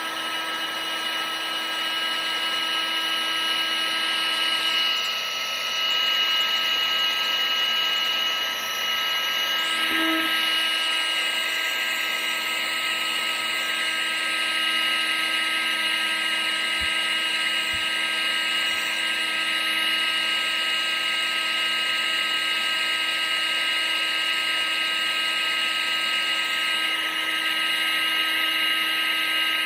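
Electric appliance motor running steadily, a high whine over rushing air.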